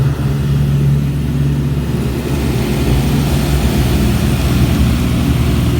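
Mr Magic Storm car wash's high-pressure rocker panel blasters spraying the lower sides of the car, heard from inside the cabin as a hiss over a steady low rumble of machinery. The hiss grows about two seconds in.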